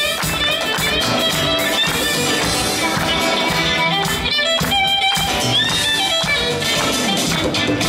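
A live band plays an instrumental vamp, with guitar to the fore over bass and drums.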